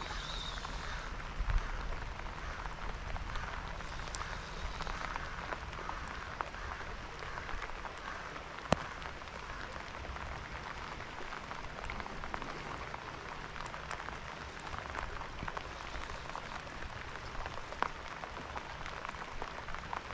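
Steady rain falling on the river and the canoe, with scattered small drop ticks and one sharp tick a little before the middle.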